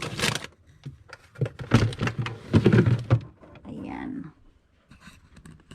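Food packages, jars and bottles being handled and shifted on refrigerator shelves: rustling and knocks, loudest about a second and a half to three seconds in, with a short voice sound around four seconds in.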